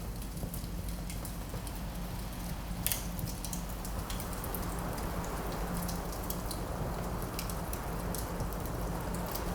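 Wood fire crackling in a fireplace, with scattered sharp pops (the strongest about three seconds in) over a steady low rush of winter wind.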